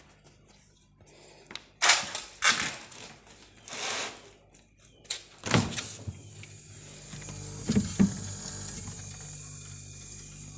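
A few handling clunks, then about six seconds in a refrigerator compressor starts and runs with a steady low hum, with a couple of knocks just after it starts. It keeps running, a sign the compressor still works.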